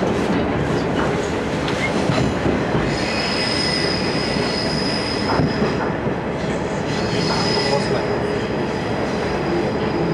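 Aizu Railway AT700 diesel railcar running through a curve, heard from inside the passenger cabin: a steady rumble of wheels and engine, with a high wheel squeal that comes in about three seconds in, breaks off briefly and returns, fading near the end.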